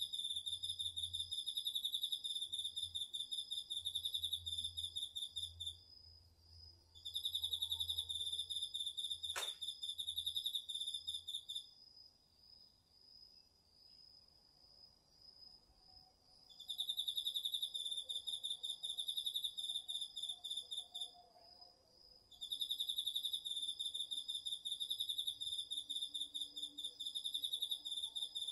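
Autumn night insect chorus: one insect sings loud, rapidly pulsed trills in bouts of about five seconds, four bouts with pauses between them, over a steady, higher-pitched trill from another insect that never stops. A single sharp click sounds about nine seconds in.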